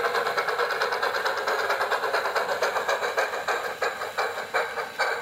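Garden-scale model train running, a steady mechanical sound with a rapid, even beat that slows from about three seconds in.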